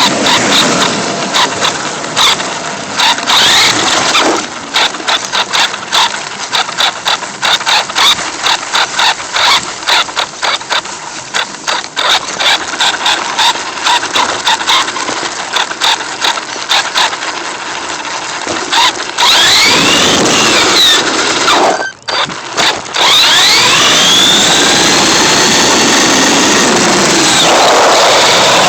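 Electric radio-controlled truck driving hard. At first the sound is choppy, with rapid crackles and stop-start noise. From about two-thirds of the way in it becomes a steady loud motor whine that rises and falls in pitch as the truck speeds up and passes.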